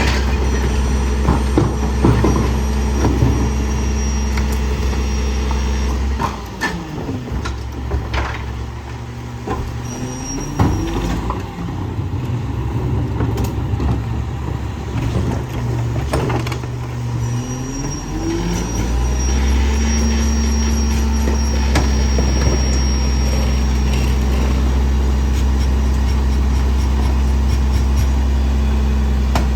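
Garbage truck's diesel engine running steadily, with scattered knocks and clanks as bulky trash is handled. About six seconds in the engine note drops and changes, sweeps up and down twice, and then returns to its steady hum near the twenty-second mark.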